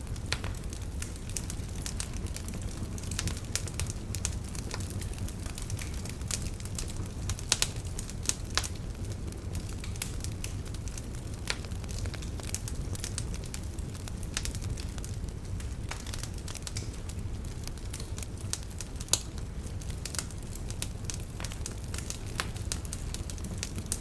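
Logs burning in a fireplace, crackling with frequent sharp pops over a steady low rumble. A few louder pops stand out, two around eight seconds in and one at about nineteen seconds.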